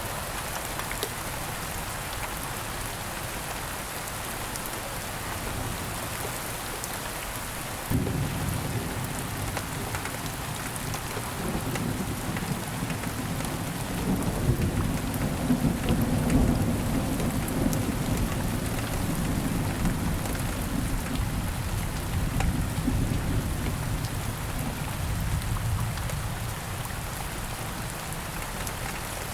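Steady rain falling, with a peal of thunder that breaks suddenly about a quarter of the way in, rumbles loudest around the middle and rolls away near the end.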